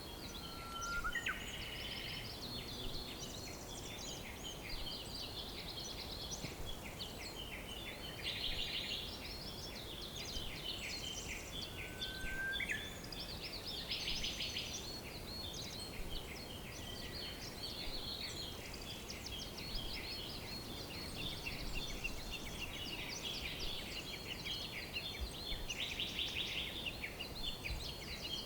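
Many birds chirping and trilling over one another in a dense, continuous chorus over a steady low hiss. Two short rising whistles stand out, one about a second in and one near the middle.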